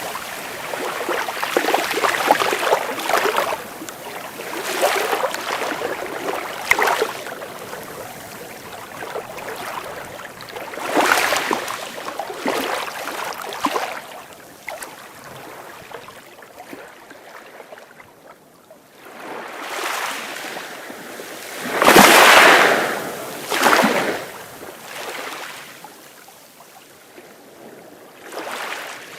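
Sea waves breaking and washing up the shore, a surge of noise every few seconds, the loudest about three-quarters of the way through.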